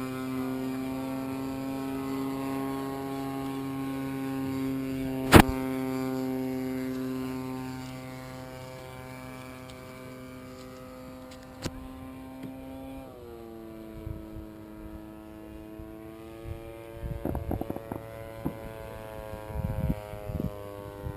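Electric motor and propeller of a radio-controlled depron foam airplane, a steady whine in flight that drops in pitch about 13 seconds in as it is throttled back for a glide. There is one sharp loud click about 5 seconds in and scattered bumps near the end.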